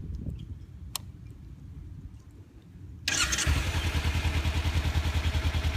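2015 Kawasaki Ninja 300's parallel-twin engine starting about three seconds in, catching at once and settling into a steady idle through its stock exhaust. The startup is not loud. A single click comes about a second in.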